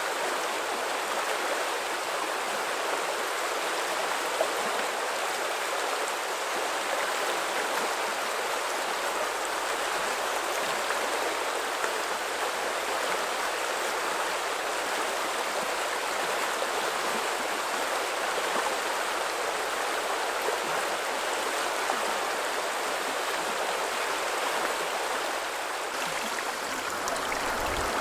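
Shallow, clear mountain river babbling steadily over stones, a continuous even rush of water.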